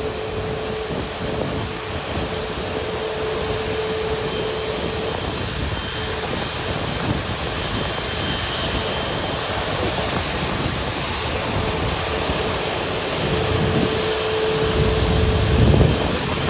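Airbus A380 jet engines running steadily as the aircraft lands, a wide rushing roar with a steady hum coming and going over it, and the low rumble swelling near the end.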